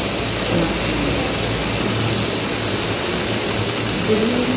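Masala frying in hot oil in a kadai: a steady sizzling hiss over a low rumble, unchanged throughout.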